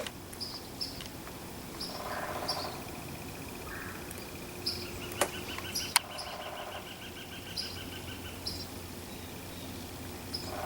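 Small birds chirping outdoors: short high chirps repeated every second or so, with a longer trill midway and a couple of sharp clicks, over a steady low background noise.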